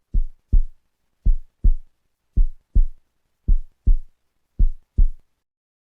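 Heartbeat sound effect: five deep double thumps (lub-dub), about one pair a second, stopping shortly before the end.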